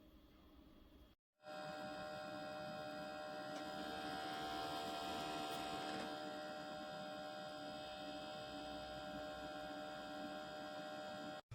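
Ultrasonic cool-mist humidifier running: a steady electrical hum with several high, unchanging whining tones over a soft hiss.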